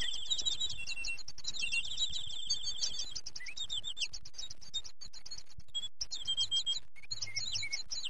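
Songbirds chirping and twittering: many quick, high chirps overlapping in a steady stream, with several brief pauses in the chirping.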